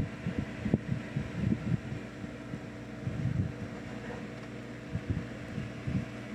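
Kolin RCD3 air conditioner running with a steady hum, overlaid by irregular low thumps on the microphone.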